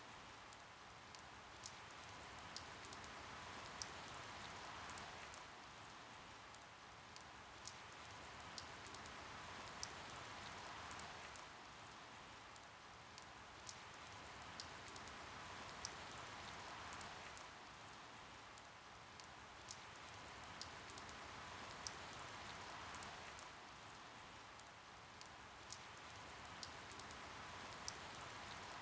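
Soft, steady rain falling, with scattered sharp drops ticking through it; the patter swells and eases about every six seconds.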